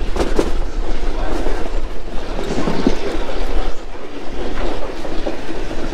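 Passenger train coach rolling along the track, wheels clicking over the rails with a steady low rumble, heard from right alongside the moving car.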